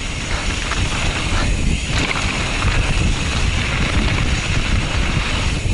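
Wind rumbling on a helmet-mounted action camera's microphone during a fast mountain bike descent, over the steady rush of the bike's tyres on a muddy dirt trail.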